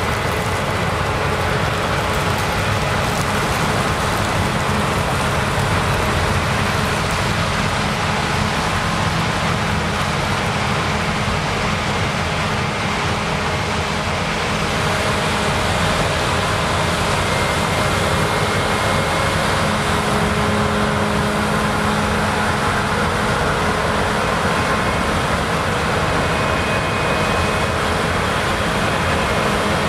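Claas Lexion combine harvester running steadily in rye: a loud, constant roar of engine and threshing machinery with a few faint steady tones. It gets a little louder about halfway through.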